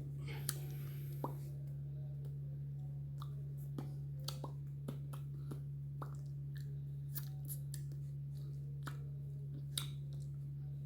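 A steady low hum with scattered faint clicks and taps.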